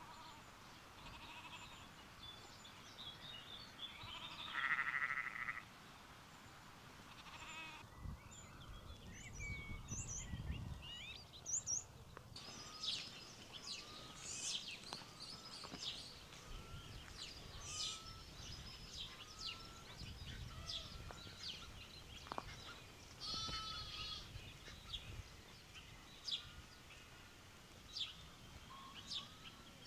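A sheep bleating once, about five seconds in, the loudest sound. Birdsong follows, with many short high chirps and a short call repeated about once a second through the second half.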